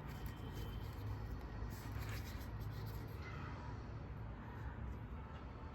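Motorcycle gloves being handled, giving soft rustling and scuffing over a steady low hum.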